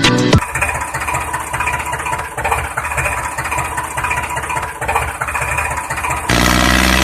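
Diesel-type engine idling with a fast, even chugging; about six seconds in it turns louder and deeper.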